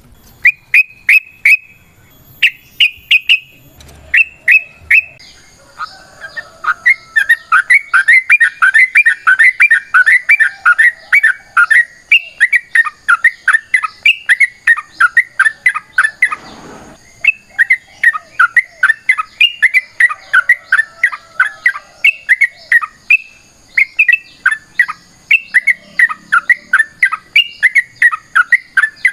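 Yellow-vented bulbul singing a long, fast chattering song, its notes repeating several times a second. Fainter high twittering runs above it, and a brief dull rustle comes about halfway through.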